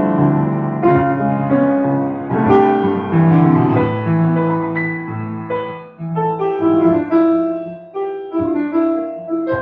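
Solo piano theme music, chords and melody notes struck and left to ring.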